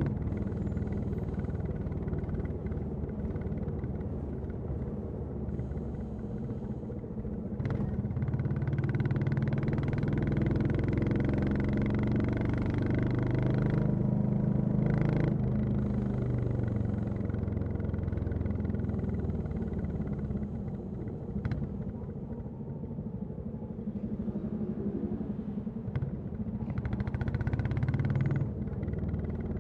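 Royal Enfield Classic 350 single-cylinder engine and exhaust running on the move. The note rises and eases off with the throttle. It is louder through the middle and again briefly near the end.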